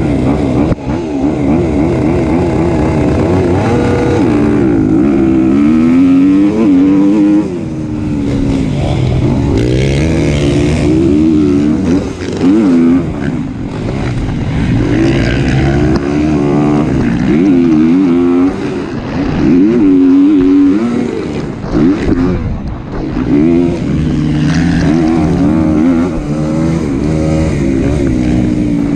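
Kawasaki KX250 four-stroke single-cylinder dirt bike engine revving up and dropping back over and over as it is ridden hard around a motocross track, with a few brief throttle chops.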